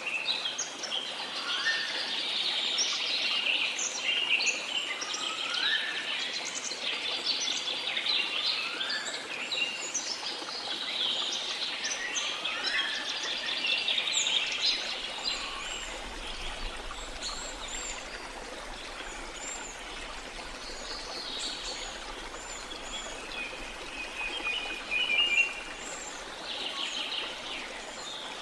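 A chorus of birds chirping and calling over a steady rush of water. Through the first half one bird repeats a rising whistle about every two seconds.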